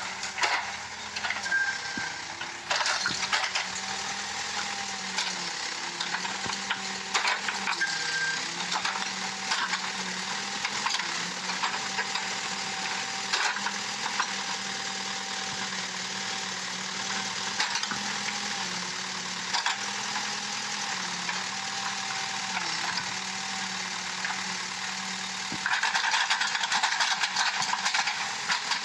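Case backhoe's diesel engine running steadily while it digs, its pitch dipping briefly every few seconds as it takes load, with scattered knocks and scraping from the bucket working the soil. It grows louder near the end.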